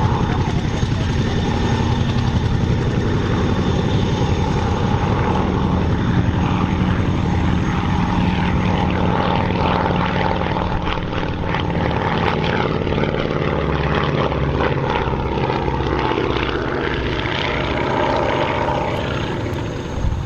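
Avro Anson's twin radial engines and propellers droning steadily as it flies its display, dipping a little about two-thirds of the way through and swelling again near the end.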